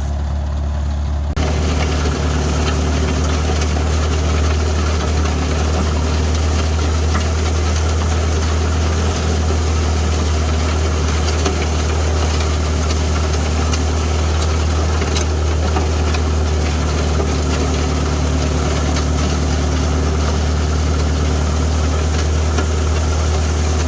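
1956 Ford 640 tractor's four-cylinder engine running steadily, with a constant low drone; about a second in it becomes louder and fuller.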